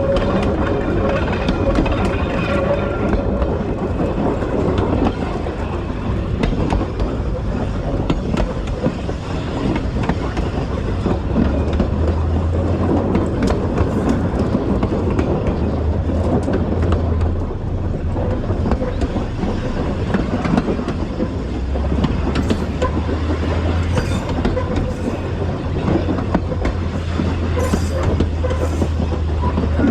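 2000 class diesel railmotor running along the track: a steady rumble of engine and wheels with clickety-clack from the rail joints. A high whine at the start fades within the first few seconds, and a deeper engine drone builds from about a third of the way through.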